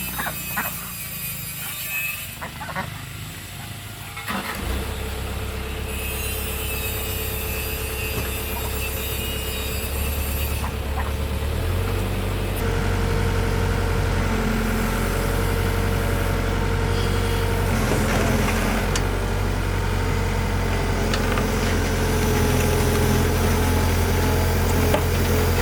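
A truck engine starts running steadily about four seconds in, after a few knocks and clatter, and grows slightly louder. Its note shifts a little about halfway through.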